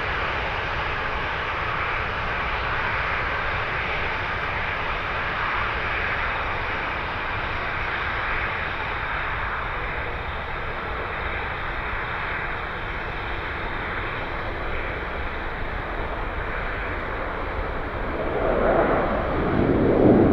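Jet airliner engines running on a landing approach, a steady roar with a faint high whine in the middle, surging louder near the end.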